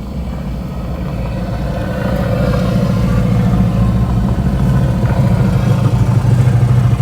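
Motor vehicle engine running with a steady low hum, growing louder over the first few seconds and then holding steady.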